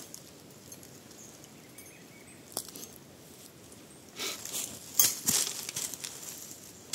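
Faint outdoor background, then from about four seconds in rustling handling noises with a few sharp clicks, the loudest about five seconds in.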